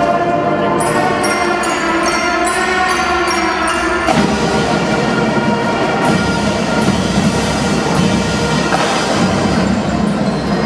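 Marching drum band playing a tune: held melody notes over continuous drumming, with short, high, bell-like notes. A fuller section comes in with a hit about four seconds in.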